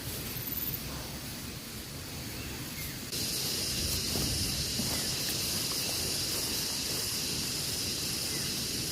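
Outdoor ambience: a low rumble throughout, joined abruptly about three seconds in by a steady high hiss.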